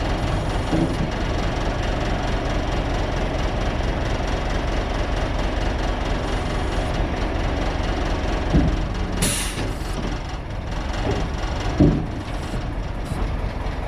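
A Scania truck's engine running with the PTO engaged, driving the car transporter's hydraulics for the beaver-tail extension. Two metal clunks come in the second half, with a short hiss between them.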